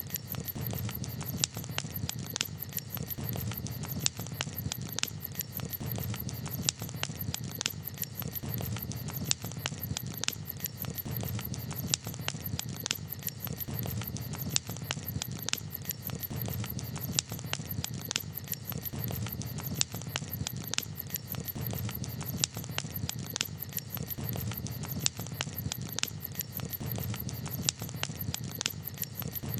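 Campfire crackling: irregular sharp pops and snaps, a few each second, over a low steady rush from the burning wood.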